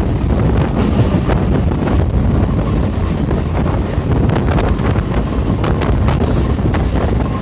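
MEMU train running at speed: a steady low rumble of wheels on the track with wind buffeting the microphone, and scattered sharp clicks from the wheels and running gear.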